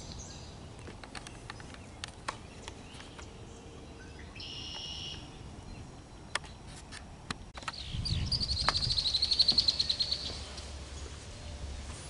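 Birds calling: a short call about four seconds in, then a fast high trill of roughly ten notes a second, the loudest sound, over a low rumble that starts about eight seconds in. Scattered faint clicks throughout.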